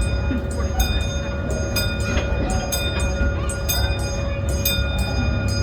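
Amusement-park train on the Scenic Railway: a steady low rumble with a quick run of sharp metallic clicks, about three a second, that ring briefly.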